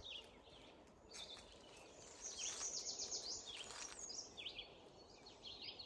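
Faint birdsong: a run of short, high chirps, densest through the middle, over soft outdoor background hiss.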